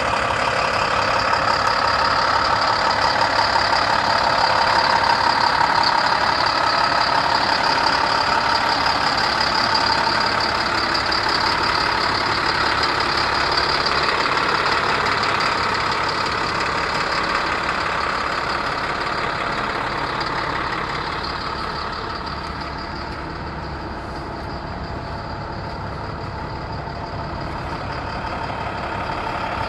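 2011 International 7400 truck's diesel engine idling steadily with an even, fast clatter. It grows somewhat quieter past the middle, then louder again near the end.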